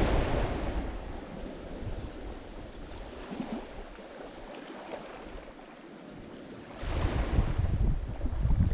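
Lake Michigan waves breaking on the shore. One wash fades over the first second, there is a quieter lull, and a second wave breaks about seven seconds in. Wind rumbles on the microphone along with the breaking waves.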